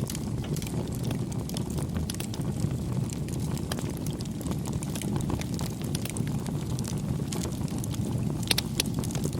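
Campfire burning with a steady low rush and scattered sharp crackles and pops, a quick cluster of louder pops near the end.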